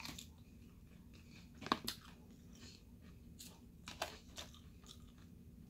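Close-up chewing of crispy fried chicken wing, with soft mouth sounds and a few sharp crunches, the loudest a little under two seconds in.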